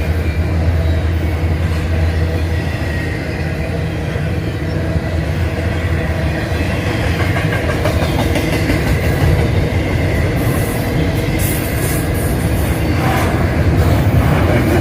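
Norfolk Southern intermodal freight train passing: a low diesel locomotive drone fades out in the first couple of seconds, giving way to the steady rumble and clatter of the freight cars' wheels on the rails.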